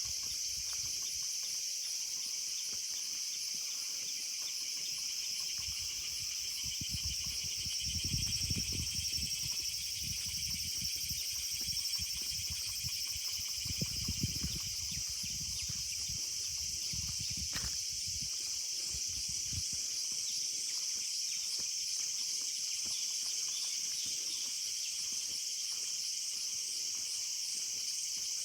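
Steady, high-pitched chorus of insects chirring, with a fine pulsing trill. A low rumble swells and fades in the middle.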